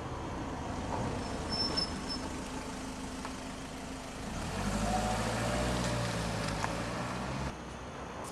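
Car engine running at low revs, then pulling away about four and a half seconds in, its note rising as it accelerates through the turn. The sound drops off suddenly shortly before the end.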